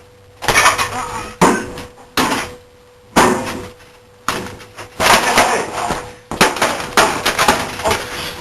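A computer being smashed with repeated heavy blows. About five separate hits come roughly a second apart, then faster, overlapping crashes and clattering from about halfway through.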